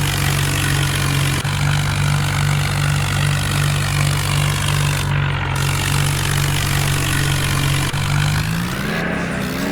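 Mahindra Arjun tractor's diesel engine running steadily at a constant pitch, then speeding up near the end as the pitch rises.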